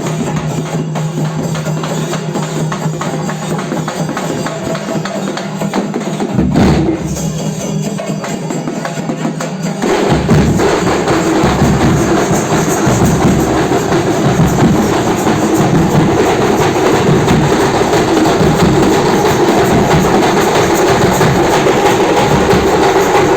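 Dollu and nagari drums played in temple ritual drumming. A lighter beat over a steady low tone gives way, about ten seconds in, to heavier low drumming, and the playing grows louder and denser.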